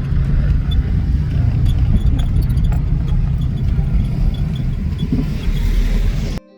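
Steady low rumble of a motor vehicle on the road, with small rattles and clicks over it, cutting off abruptly near the end.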